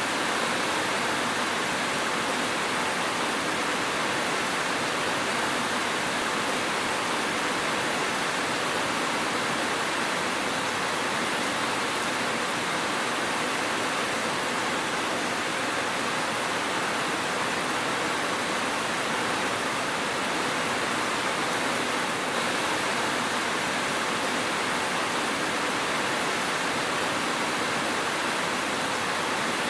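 Steady rain, an even hiss that holds at one level without breaks or thunder.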